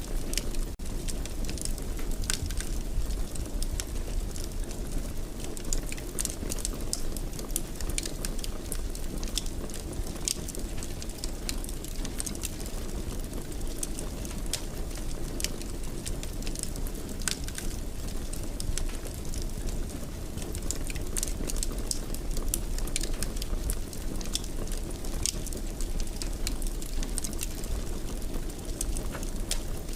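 Fire burning in a fireplace: a steady low rumble with frequent, irregular sharp crackles.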